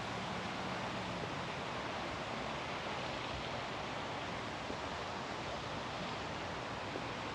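Steady outdoor ambience in a park: an even rushing hiss, with a faint low engine hum that fades out about a second in.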